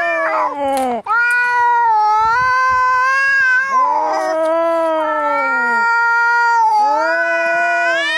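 Cats caterwauling in a fight: long drawn-out yowls that rise and fall in pitch, one after another almost without a break, with a second cat's voice overlapping now and then.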